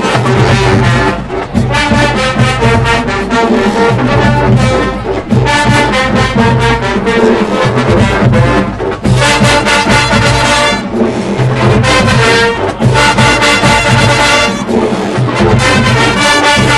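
A marching band playing a loud brass arrangement, with trombones and trumpets over a heavy bass line and steady drum hits.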